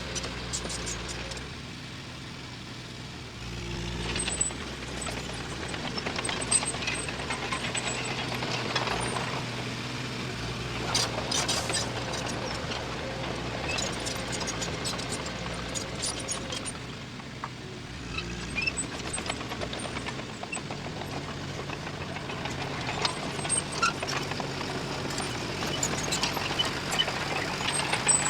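Diesel engine of heavy earthmoving machinery running steadily, with sharp metallic clanks now and then.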